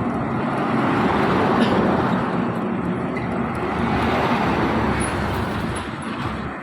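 Heavy trucks driving past in a line: a steady rumble of diesel engines mixed with tyre and road noise, easing a little near the end.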